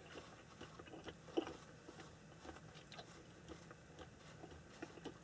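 Faint crunching and chewing of someone eating, with scattered small clicks and one louder tap about a second and a half in.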